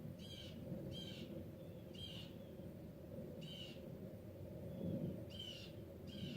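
A bird giving short, high, repeated calls at uneven intervals, roughly one a second, over a steady low rumble.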